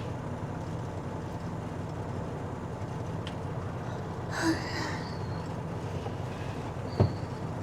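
Semi truck's diesel engine idling steadily, heard from inside the cab. There is a short brighter sound about halfway through and a single thump near the end.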